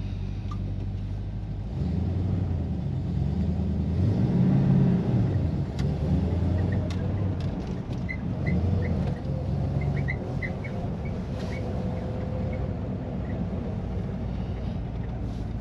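1957 Chevy Bel Air driving with its engine running, getting louder about two seconds in as it pulls away. About halfway through come a series of short, high squeaks, the squeaking noise the seller could not yet trace.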